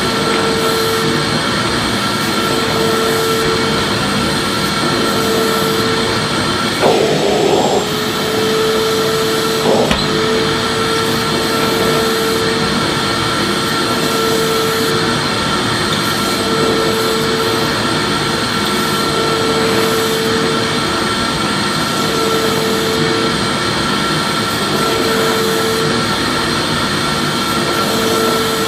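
Vacuum cleaner running steadily. Its motor hum swells and fades about every two seconds, and there is a brief bump about seven seconds in.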